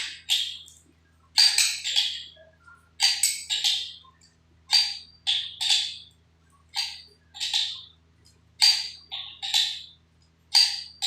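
Repeated short rasping strokes from hand work, coming in pairs or threes about every one and a half to two seconds, over a faint low hum.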